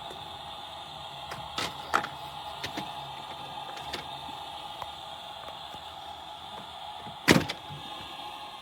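Several light knocks and clicks over a steady hum, with one louder knock about seven seconds in.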